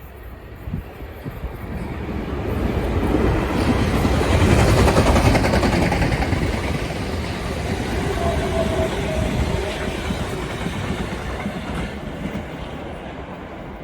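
A passenger train running along the line past the platform, loudest about five seconds in and then slowly fading away.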